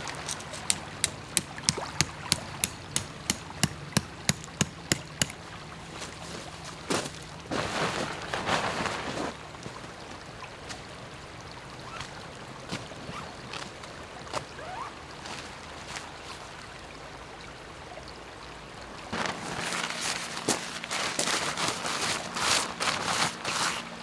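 A quick run of about fifteen sharp, evenly spaced knocks, about three a second, lasting some five seconds, then rustling that comes and goes.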